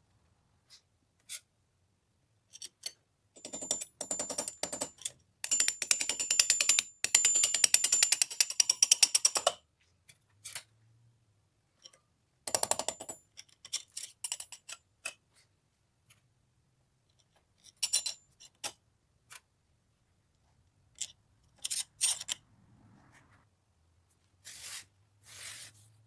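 Hand work on metal parts: bursts of rapid scraping strokes with a faint high ring, the longest lasting several seconds, then shorter bursts and scattered single clicks and knocks.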